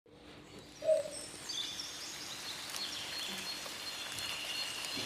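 Birds chirping and calling in short gliding high notes over a steady background hiss, with a brief louder sound about a second in.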